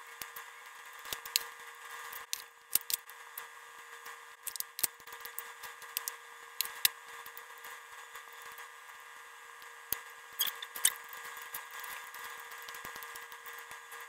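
Close-up eating sounds of roasted chicken: chewing, lip smacks and meat pulled apart by hand, heard as irregular sharp clicks scattered through, with a few louder ones. A faint steady hum runs underneath.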